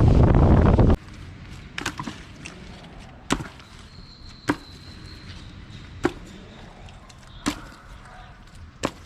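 Steady wind and boat noise for about a second, then cut off abruptly, followed by a series of single sharp knocks about every one and a half seconds.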